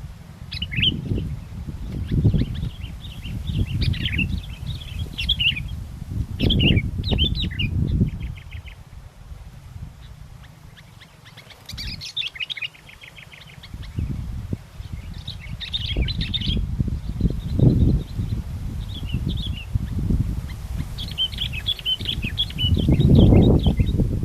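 Sooty-headed bulbuls (kutilang) chirping and trilling in repeated short phrases, with strong wind buffeting the microphone as a gusty low rumble that swells near the end.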